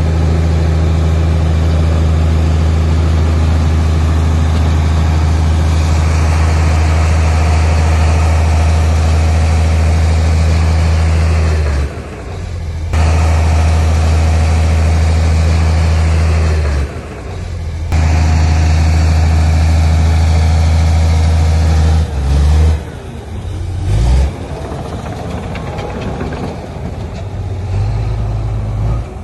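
Heavy construction machine's diesel engine running loud and steady under load. Its level drops off briefly about twelve and again about seventeen seconds in, and it runs unevenly, rising and falling, over the last several seconds.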